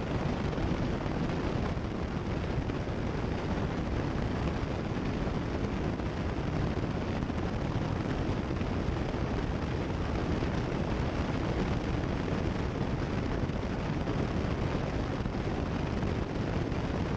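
Cessna 172 Skyhawk's engine and propeller droning steadily in cruise, heard through the headset intercom as an even low rumble.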